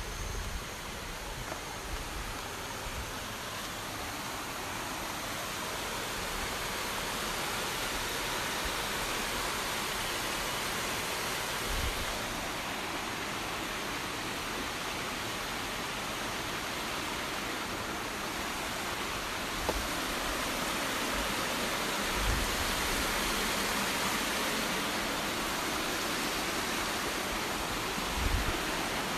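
Steady rushing of a waterfall that grows gradually louder, with a few brief low bumps.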